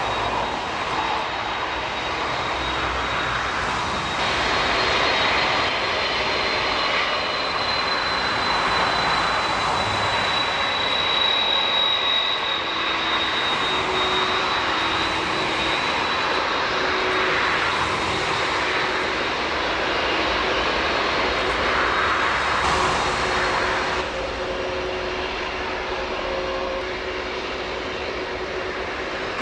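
Jet engines of a three-engined airliner running: a steady roar with a high whine that slides slightly down in pitch. The sound shifts abruptly near the end.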